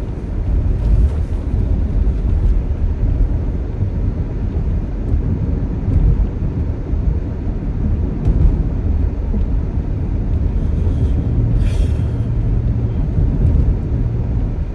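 Car engine and road noise heard from inside the cabin while driving: a steady low rumble. The engine is running rough and shaking, with the check engine light blinking. A short hiss comes in near the end.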